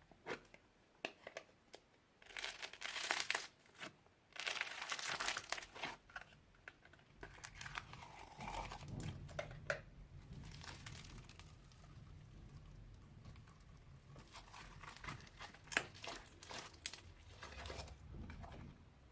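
Slime being handled and squeezed, giving bursts of crackling and popping clicks, the loudest two to six seconds in and again near the end.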